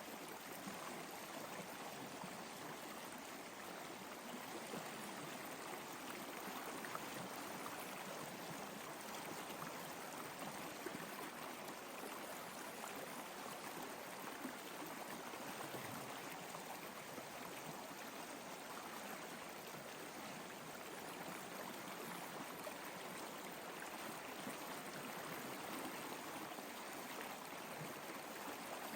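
Flowing water, a steady, even rush like a stream.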